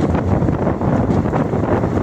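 Moving train's steady running rumble from wheels on the track, with wind buffeting the microphone.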